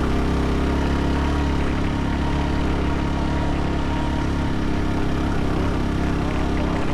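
Motorcycle engine running steadily at an even pitch, without revving up or down.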